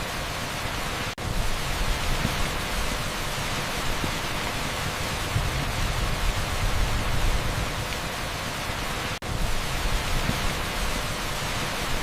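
Heavy downpour on an asphalt street as a steady, dense hiss like pink noise, with two very brief dropouts, about a second in and about nine seconds in.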